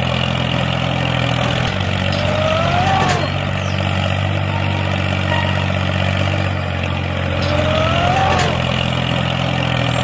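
Tractor engine running steadily with a low hum, joined twice by a short rising-then-falling whine; the pattern repeats about every five seconds, like a looped engine track.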